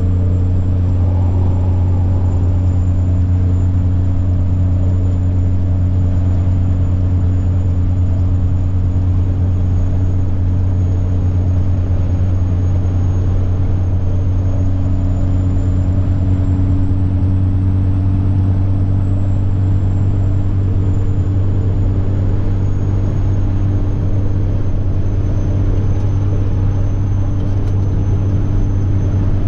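Semi-truck's diesel engine droning steadily on the road, with a thin high turbocharger whine above it that rises slightly about halfway through and eases back down.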